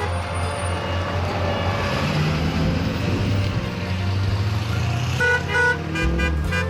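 Car horns honking in a couple of short blasts about five seconds in, over a steady low rumble of parade vehicles.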